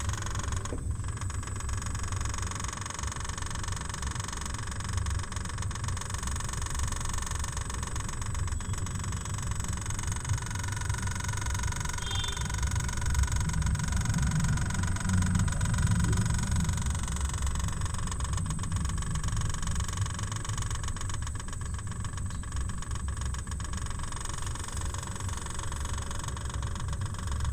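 Compressor of a Samsung double-door Twin Cooling refrigerator running with a steady low hum and a faint high whine above it. This is the compressor noise the owner reports as a problem.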